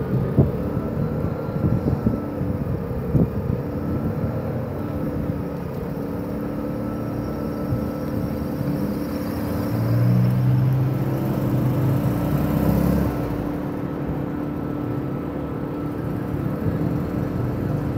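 Classic Volkswagen Beetle's air-cooled flat-four engine running as the car pulls away and drives past, louder a little after halfway through as it goes by, then easing off as it moves away.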